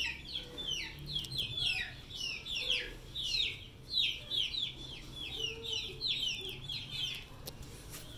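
Birds chirping busily: many short, high calls that slide down in pitch, several a second.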